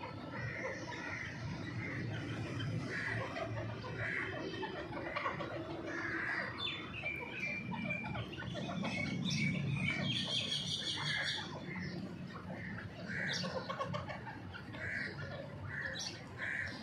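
Partridge-like ground birds and their chicks calling: short soft calls repeated every second or so, with a run of high, rapid peeping about ten seconds in, over a low steady background hum.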